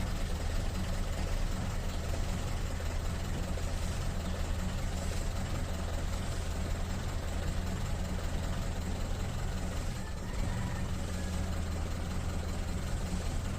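Dehumidifier running: a steady low motor hum with an even fan whoosh over it.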